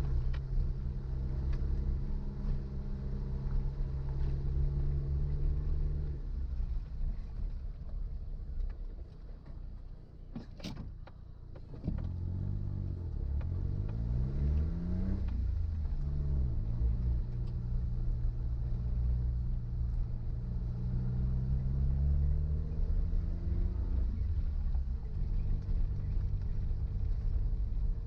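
Suzuki Jimny's engine driving along a rough forest road. It runs steadily, eases off with a single sharp click about ten seconds in, then twice climbs in pitch as it accelerates, the revs dropping after each climb as it shifts up.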